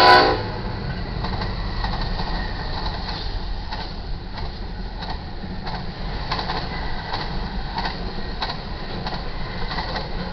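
BNSF freight train passing at speed. The lead EMD SD70ACe locomotive's horn cuts off just after the start, then the locomotives and intermodal cars go by with a steady low rumble and irregular wheel clicks over the rail joints.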